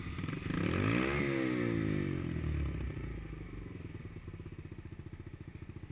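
Small four-stroke pit bike engine passing by: its note swells and sweeps up then down about a second in, then fades. A steady low engine putter carries on afterwards.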